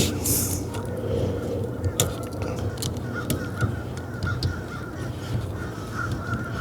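Steering-column wiring harness connectors being handled and pushed back into place, with several sharp plastic clicks as they seat. A bird calls faintly in the background.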